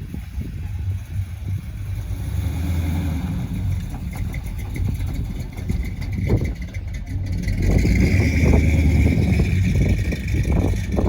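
A car engine running with a deep rumble, swelling louder about eight seconds in.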